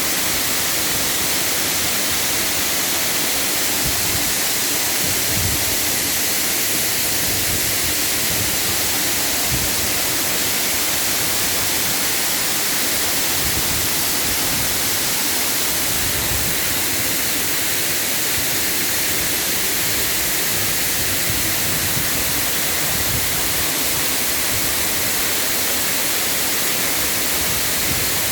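Waterfall rushing: a steady, loud hiss of falling water that does not change throughout.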